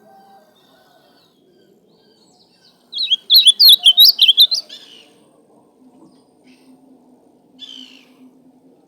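Ultramarine grosbeak (azulão) singing. About three seconds in comes one loud, rapid phrase of quick warbled notes lasting under two seconds, and near the end a short, softer phrase.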